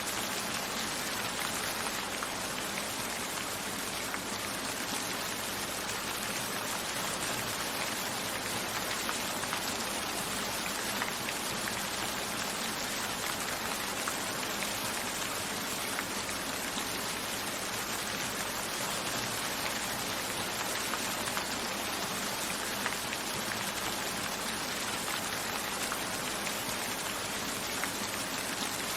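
Steady rain falling, with drops hitting window glass.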